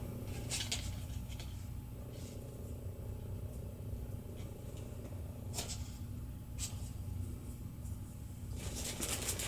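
Low steady room hum with a few faint, light clicks as marshmallows and pretzel sticks are handled on a table: a couple near the start, two more past the middle, and a little more rustling near the end.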